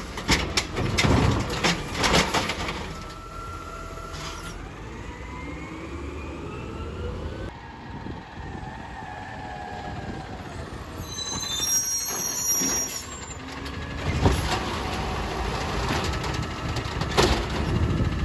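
Recycling garbage truck working a pickup: clanks and bangs of the container at the start and end, an engine-driven hydraulic whine rising in pitch in between, and brief high squeals near the middle.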